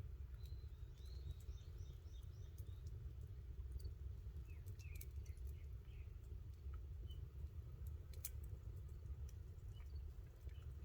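Small birds chirping in short runs of quick notes, with a few sharp clicks scattered through, the loudest about eight seconds in, over a faint steady low rumble.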